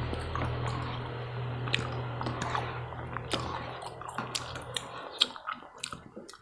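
Close-up wet chewing and mouth smacks from eating saucy tteokbokki rice cakes, with scattered sticky clicks. A low steady hum underneath stops about five seconds in.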